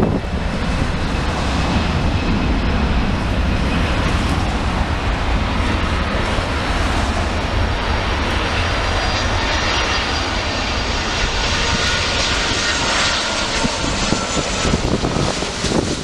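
Wide-body jet airliner's engines running loud and steady as it passes the runway, with a thin high whine rising out of the roar from about halfway through.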